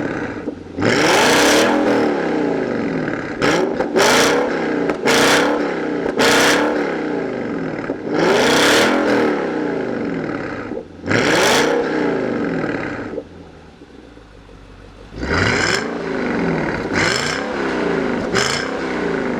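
Infiniti M56's 5.6-litre V8 through a Mechatuning valved variable exhaust, revved in about ten quick blips, each pitch rising then falling back. There is a quieter idle stretch after about thirteen seconds before the blips resume.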